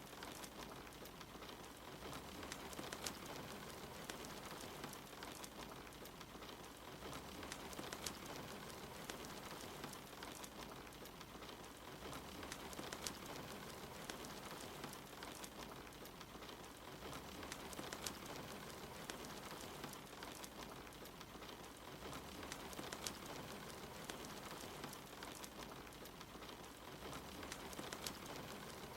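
Steady rain mixed with a wood fire crackling, the fire giving scattered sharp pops over the even patter of the rain.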